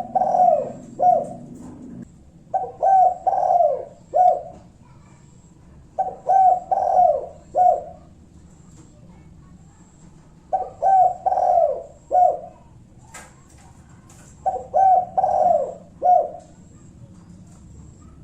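Spotted dove (tekukur) cooing in repeated phrases, the single-kuk call type used to provoke rival doves into answering. Each phrase is two quick coos, a longer coo and a short clipped final note, and comes about every four seconds.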